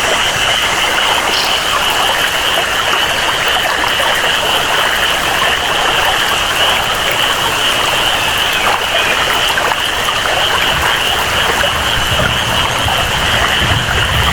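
Tropical rainforest ambience: steady rainfall with a constant high-pitched chorus of calling animals over it. A low rumble builds in the last few seconds.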